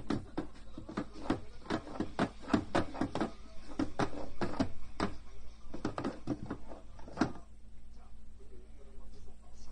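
Homemade mole-catching cat toy clacking: a quick, irregular run of hard knocks, a few a second, that stops about seven seconds in, followed by a few fainter knocks.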